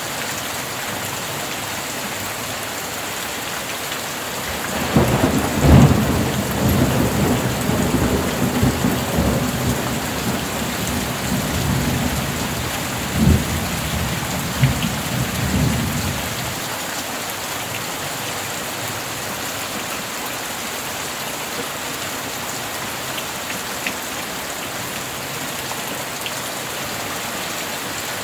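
Steady heavy rain, with a roll of thunder starting about five seconds in. The thunder rumbles low with a few sharper cracks, loudest near its start, then fades back to rain alone after about eleven seconds.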